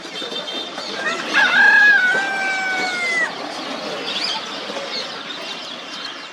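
A rooster crowing once: a single long call of about two seconds, held level and dropping off at the end.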